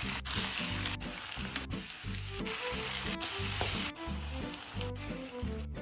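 Food sizzling steadily in a hot pan, with background music playing underneath.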